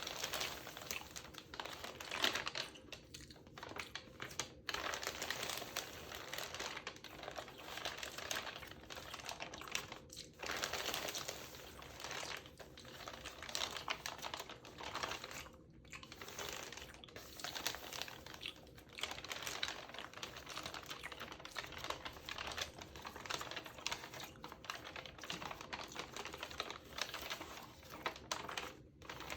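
Close-miked mouth sounds, a dense run of quick wet clicks and pops, mixed with the crinkling of a magazine's textured paper pages, with a few brief pauses.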